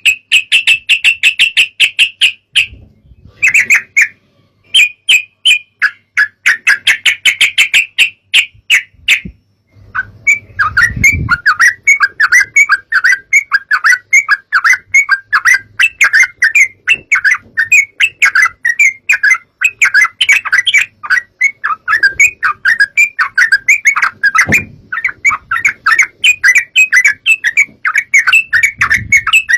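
Yellow-vented bulbul (trucukan) song: fast, chattering chirps in short phrases with brief pauses, turning about ten seconds in into a dense, unbroken run of chirping.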